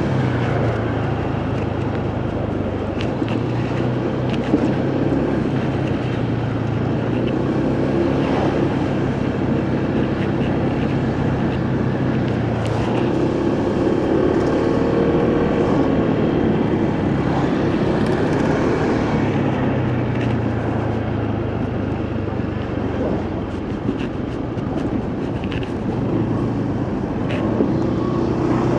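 Motorcycle engine running at road speed, with wind noise on the microphone. The engine note shifts up and down a few times as the speed changes.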